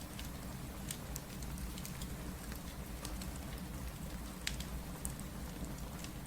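Steady rain with a crackling wood fire: an even hiss and low rumble, with scattered sharp pops, the loudest about four and a half seconds in.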